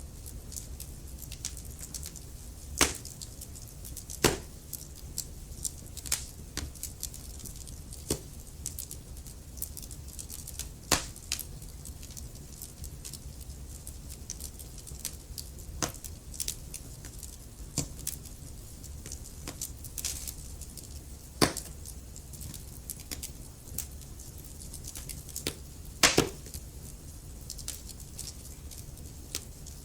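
Wood fire crackling in a fireplace: irregular sharp pops and snaps over a low steady rumble of the flames, with a few louder pops.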